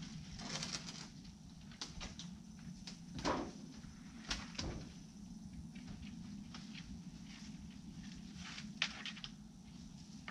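Faint scattered knocks and clicks, a handful of them spread unevenly, over a low steady hum.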